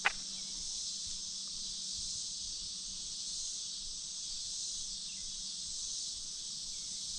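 Steady high-pitched chorus of insects, an unbroken chirring that does not change, with a single brief click right at the start.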